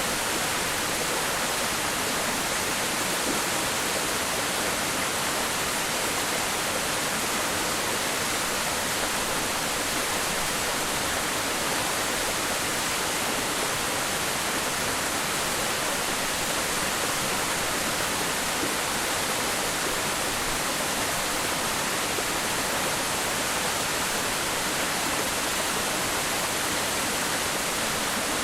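Waterfall: water falling and splashing in a steady, unbroken rush, with most of its sound high and hissing rather than low and booming.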